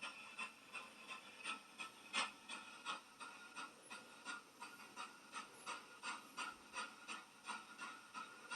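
Faint, even rhythm of short breathy pulses, about two to three a second, like panting.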